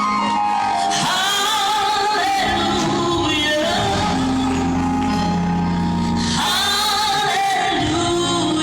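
Live gospel music: a woman singing long phrases with vibrato over band accompaniment, with other voices joining in.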